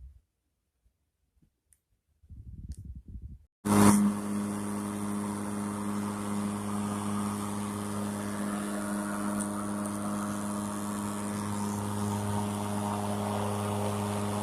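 Some brief handling noise, then about four seconds in the Ryobi ONE+ 18V cordless lawn mower's electric motor starts suddenly and runs at a steady humming whir with the blade spinning.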